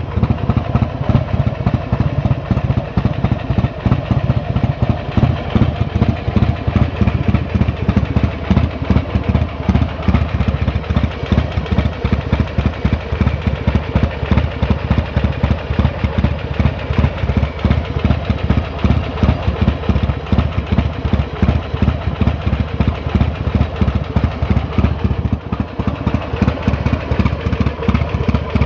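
Buell XB9R's air-cooled V-twin idling steadily through a race exhaust, a fast, even pulsing from the pipe.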